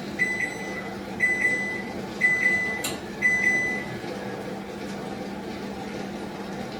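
A kitchen appliance beeping, a high electronic tone about once a second, four times, over a steady low hum. A short click comes near the last beep, and after that only the hum is left.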